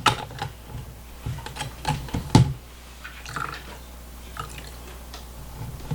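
Water splashing and dripping with irregular clicks and knocks from a toy mini washing machine holding a makeup sponge in soapy water, the loudest knock about two and a half seconds in, quieter after that.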